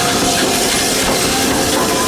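Train running along the line: a steady, loud rumble and rattle of the wheels, with faint held whining tones over it.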